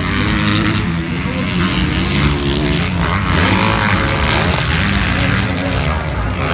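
Motocross motorcycle engines running and revving, their pitch rising and falling, with a rising rev about three seconds in.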